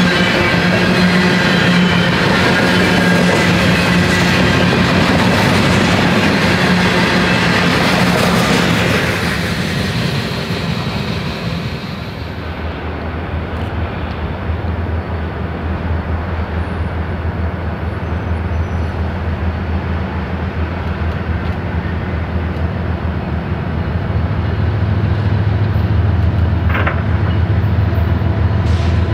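A train passes close by with wheel clatter, fading away. About twelve seconds in it gives way to a BNSF diesel locomotive moving slowly toward the listener, its engine's low rumble growing louder near the end.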